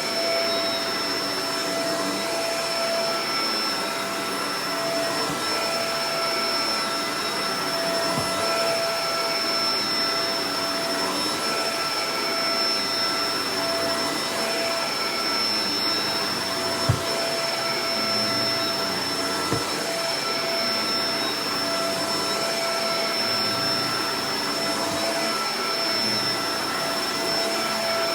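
Shark Professional Powered Lift-Away DLX (NV586) vacuum cleaner running steadily: a constant rush of air with a held whine over it. Two short low knocks come about two-thirds of the way through.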